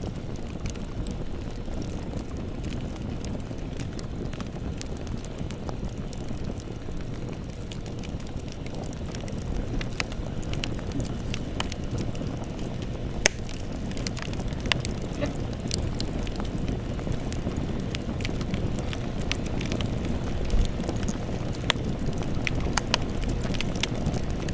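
Wood campfire burning, with a steady low rumble and irregular sharp crackles and pops from the burning wood, one louder pop about halfway through.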